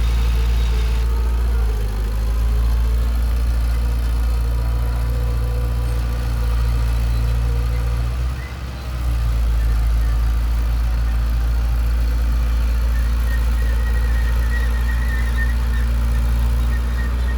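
Heavy diesel engine of earthmoving equipment running steadily with a deep low rumble, dipping briefly a little past the middle.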